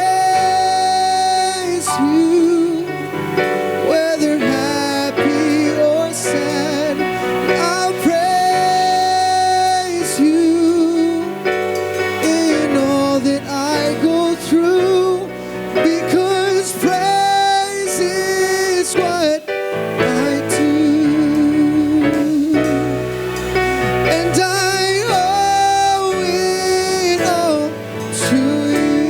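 Gospel worship song: a singer holding long, wavering notes over steady instrumental accompaniment.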